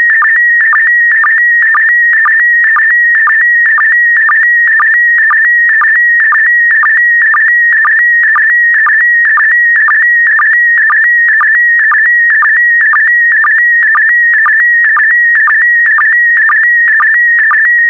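PD120 slow-scan television (SSTV) image signal: a loud, steady electronic tone warbling around 2 kHz as it carries the picture's brightness and colour, broken about twice a second by short lower-pitched sync pulses that each mark the start of a new scan-line pair.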